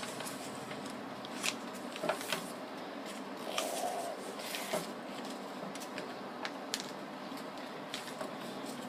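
A sheet of paper being folded and creased by hand: scattered crinkles and rustles at irregular moments over a steady background hiss.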